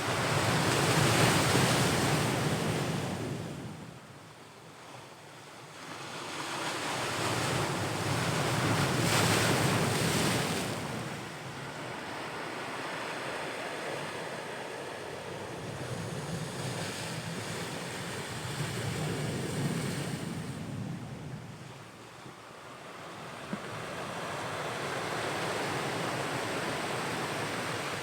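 Ocean waves surging onto the shore and drawing back, the noise swelling and fading every several seconds, with the biggest surges near the start and about eight to ten seconds in.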